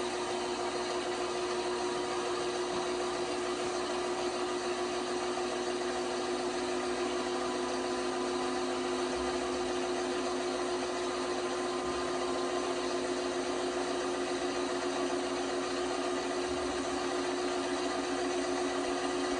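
LG washing machine running with a steady motor hum. A second tone creeps slightly upward in pitch as the drum turns.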